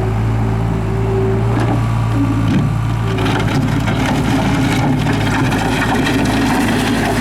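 Case 40XT skid steer's diesel engine running steadily, with a higher whine that comes and goes and a few knocks or clanks.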